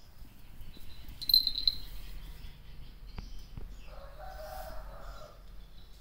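Short, high bird chirps about a second in, then a longer, lower-pitched animal call about four seconds in, over a low background hum.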